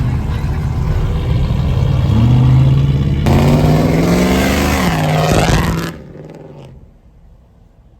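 Car engine revving: its pitch climbs over a few seconds, then falls back and drops away about six seconds in, leaving only faint background sound.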